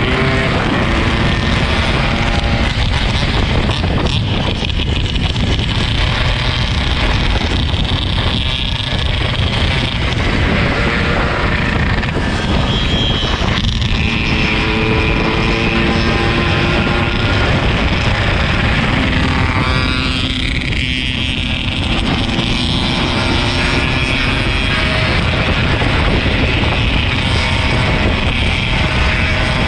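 Yamaha RX-King 135's two-stroke single-cylinder engine running while the bike is ridden, its pitch stepping up and down with the revs, under heavy wind buffeting on the microphone.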